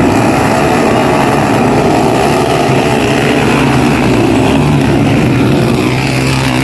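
Motocross bike engines running loud and close, a dense mechanical noise with one engine note holding steady through the second half.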